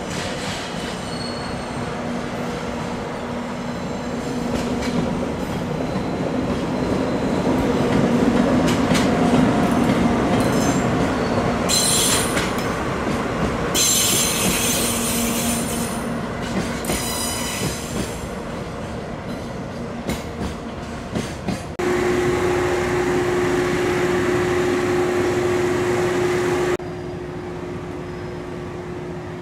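Freight train passing close by: the rumble of the wagons on the rails, with several short high-pitched wheel squeals partway through. Near the end a steady hum comes in and cuts off abruptly.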